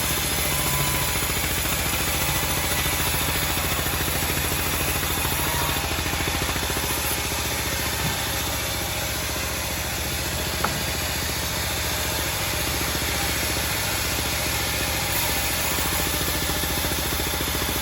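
Homemade band sawmill running steadily, its engine going with a fast, even pulse. One short sharp tick a little past halfway.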